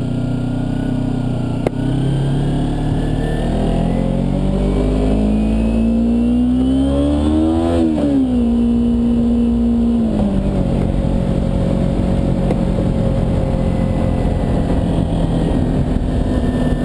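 Kawasaki Ninja 250R parallel-twin engine under way. Its pitch rises steadily as it accelerates for several seconds, drops sharply about eight seconds in, holds briefly, then drops again around ten seconds in and settles to a steady lower note as the rider eases off.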